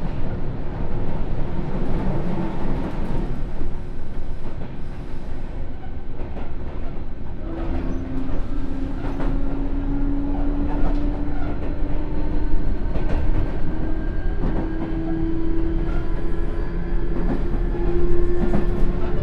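Onboard running sound of a Sotetsu New 7000 series electric train: steady wheel and rail noise with scattered rail-joint clacks. About seven seconds in, the Hitachi GTO-thyristor inverter begins a whine that climbs slowly in pitch as the train picks up speed under power.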